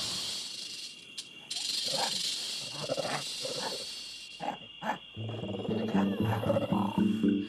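Cartoon jungle sound effects: a steady high insect-like drone with short animal calls and cries, then background music comes in about five seconds in.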